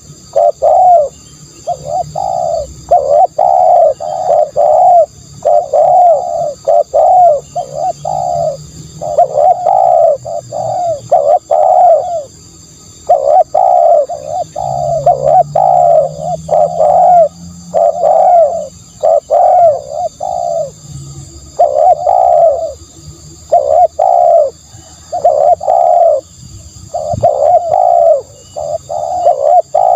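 Spotted dove cooing over and over in short groups of a few coos each, separated by brief pauses, as a lure call for trapping doves.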